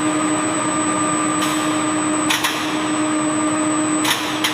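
Processing-line machinery running with a steady hum and whine, broken by a few sharp clicks or clanks.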